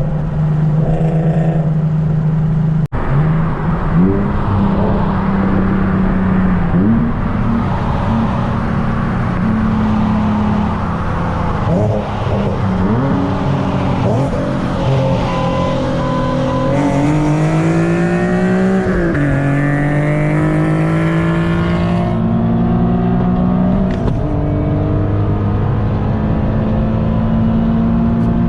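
Nissan 370Z's V6, with bolt-on parts and a tune, pulling hard through the gears: the engine note climbs in pitch in each gear and drops back at each upshift, with steadier stretches between pulls.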